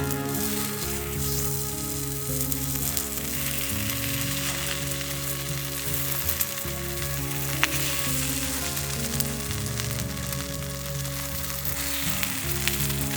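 A steady sizzling hiss throughout, under soft background music.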